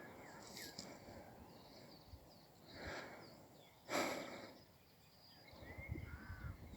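Faint outdoor quiet broken by two soft breathy puffs about a second apart, a horse blowing out through its nostrils, with faint bird chirps behind.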